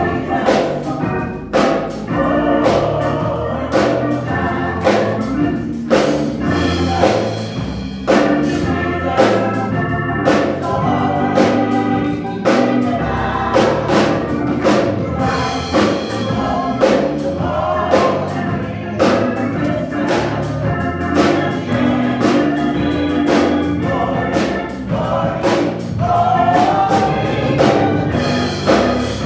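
Gospel choir singing with organ accompaniment and a steady beat.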